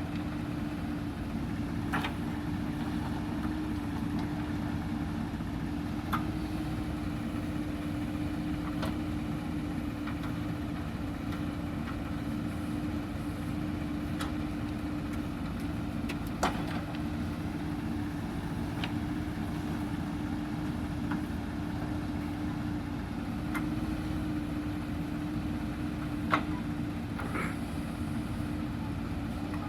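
Diesel engine of a JCB backhoe loader running at a steady speed, with a few sharp metallic knocks from the working machine; the loudest come about halfway through and near the end.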